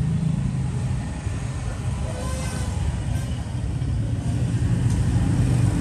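Steady low background rumble, like distant motor traffic, with no distinct event.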